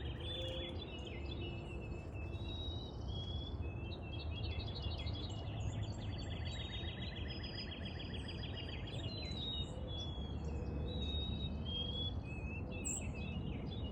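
Several songbirds singing and chirping at once, with short whistled notes and fast buzzy trills overlapping throughout, over a steady low rumble of background noise.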